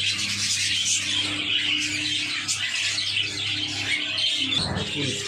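Many small cage birds in an aviary chirping and chattering together in a dense, continuous din, over a steady low hum.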